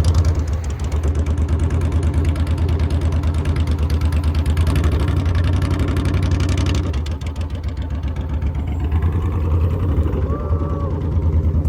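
Motorcycle engine idling with a fast, even pulse, a little louder for the first several seconds and easing off after about seven seconds.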